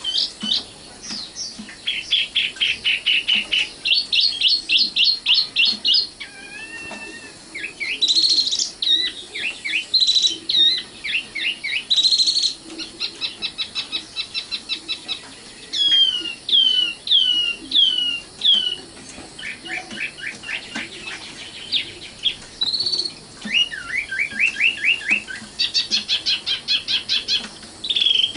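Common nightingale singing a string of varied phrases. Most are fast runs of repeated notes or trills; a few are slurred whistles, with short pauses between phrases.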